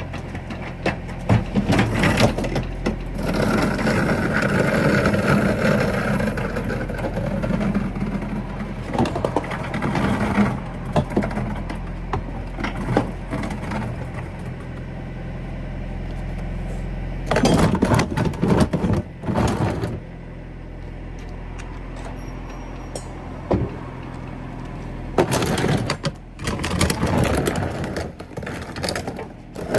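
Irregular clattering and knocking, in clusters, over a steady low mechanical hum.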